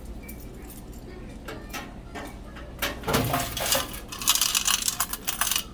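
Coins clinking and rattling as the mini claw machine's coin box is emptied, starting about three seconds in after a few light clicks.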